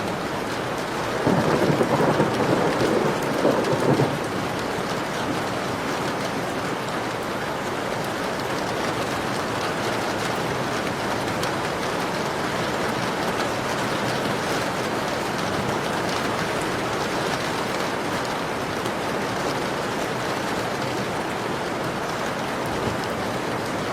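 Heavy rain falling steadily in a thunderstorm, with a roll of thunder starting about a second in and lasting a few seconds.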